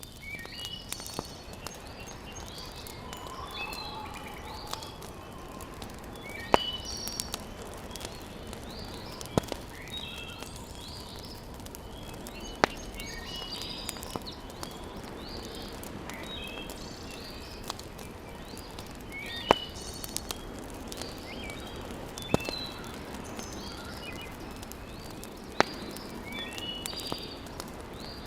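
Wood fire crackling in a fireplace over a steady low hiss, with a sharp pop every few seconds. Birds chirp repeatedly throughout.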